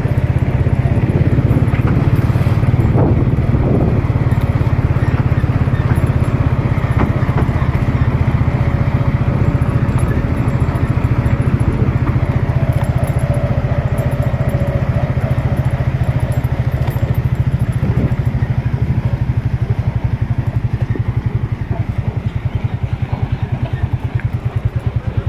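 Massey Ferguson 385 tractor's diesel engine running steadily under load while pulling a loaded trolley, with an even, rapid beat.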